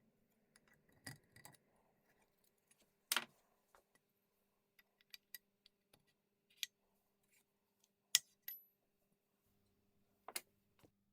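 Small metal tools and parts being handled on a workbench: scattered clinks and taps at an uneven pace, three louder knocks about 3, 8 and 10 seconds in, one of them leaving a short high metallic ring.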